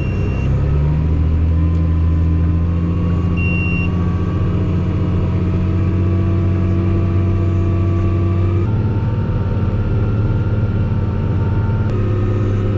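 Tractor engine running steadily while pulling a corn planter, its pitch dipping briefly at the start as it takes the load, then holding, with a shift in tone about nine seconds in. Two short high electronic beeps sound near the start and about three and a half seconds in.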